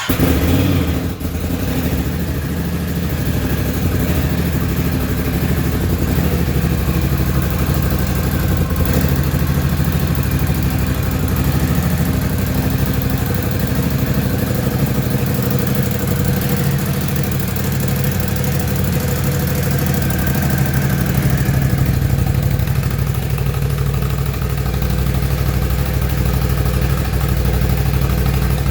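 Ducati Scrambler 1100's air-and-oil-cooled L-twin engine catching on its first ever start and settling into a steady idle.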